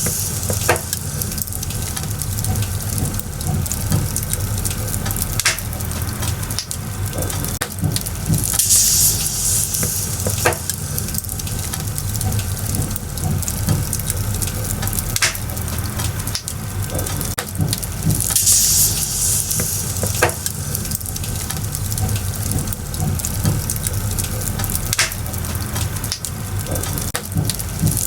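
Firewood burning in a bonfire: a steady hiss with frequent sharp crackles and pops. The hiss swells brighter for a second or two, once about nine seconds in and again about nineteen seconds in.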